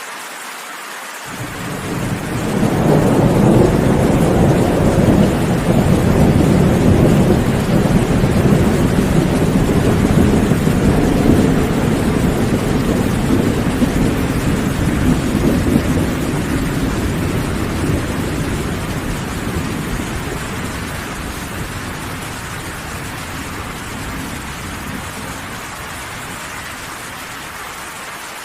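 Steady rain with a long roll of thunder: the low rumble starts about a second in, peaks within a few seconds and slowly fades away over some twenty seconds.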